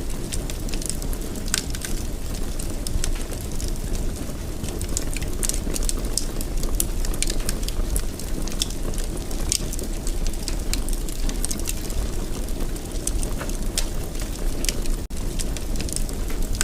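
Wood fire in a fireplace burning steadily: a low rumble with frequent irregular sharp crackles and pops. The sound cuts out for an instant about fifteen seconds in.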